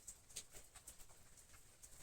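Faint, crisp rustles and small irregular ticks of flowers and their stems being handled while a bouquet is arranged, several light touches a second.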